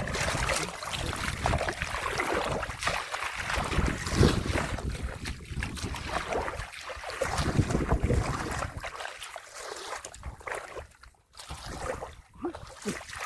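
Irregular splashing and sloshing of shallow muddy water, with wind buffeting the microphone.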